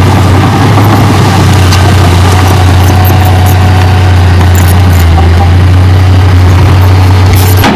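Heavy diesel engine of an earthmoving machine running steadily with a strong low hum, with scattered light clicks over it.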